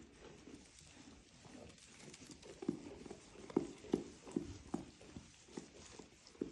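Sheep hooves knocking irregularly on hard ground as the animals shuffle about, a series of short clops that get louder about halfway through.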